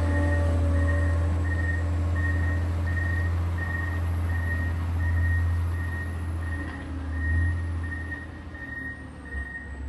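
John Deere 670 motor grader's diesel engine running under load, with its reversing alarm beeping steadily a little under twice a second as the grader backs up. The engine drops off somewhat near the end.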